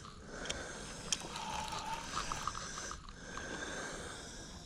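A person breathing heavily close to the microphone, two slow breaths with a faint nasal whistle in each, after the effort of landing a fish; a few faint ticks can be heard as well.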